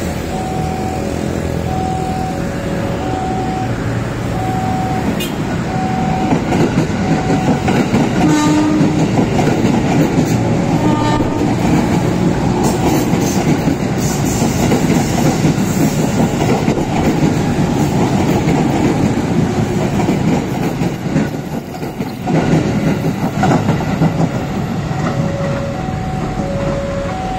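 KRL commuter electric train passing close on the curve, its wheels rumbling and clacking over the rails, with two short horn blasts about three seconds apart as it goes by. Throughout, a level-crossing warning signal sounds a steady alternating two-tone alarm.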